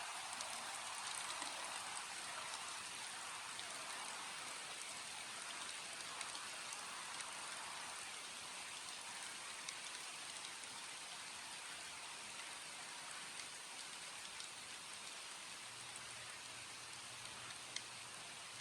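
Steady rainfall, an even hiss of rain with scattered sharper drop ticks. A faint low hum comes in near the end.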